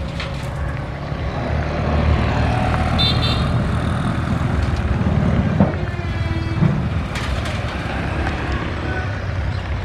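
Komatsu D21P crawler bulldozer working, its diesel engine running steadily under load and growing a little louder about two seconds in. Several sharp knocks and clanks are heard, and a brief high squeal comes about three seconds in.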